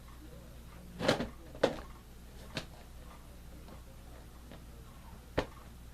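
Box fan parts being handled and fitted together during reassembly: a short clatter about a second in, a sharp click just after, a fainter click, and one sharp knock near the end.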